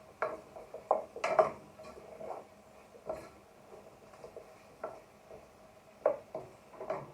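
A spoon knocking and scraping against a cooking pan in irregular clinks, a cluster of sharper knocks about a second in and again near the end, as spices in oil are stirred.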